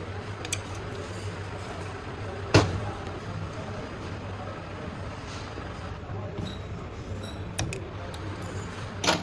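A single loud, sharp knock about two and a half seconds in, several lighter clicks, and a clack near the end, over a steady low hum: handling noises from turbocharger repair work.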